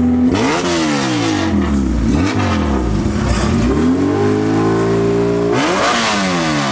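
Car engine revving: held at high revs, dropping sharply when the throttle is let off, then climbing again and holding before dropping sharply once more near the end.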